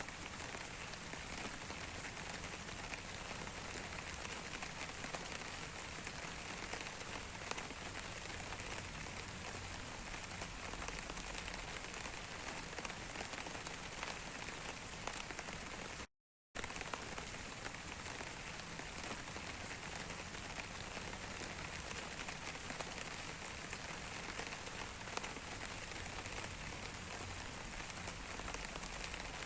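Steady rain falling on a surface: a dense, even patter of raindrops. It cuts out completely for about half a second about halfway through, then resumes unchanged.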